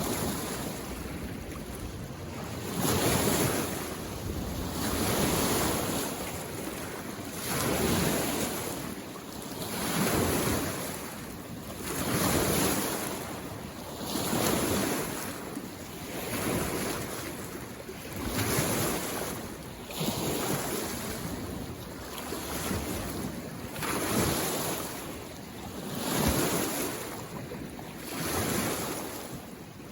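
Small lake waves coming in one after another, each swelling and washing away about every two to two and a half seconds.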